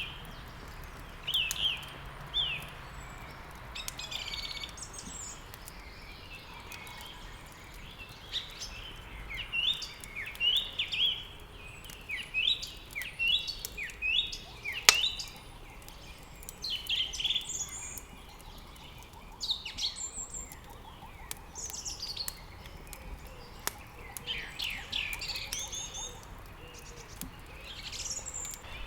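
Songbirds chirping and singing in quick runs of short, high notes, with the occasional sharp pop of a crackling wood fire in a fireplace, the loudest about halfway through.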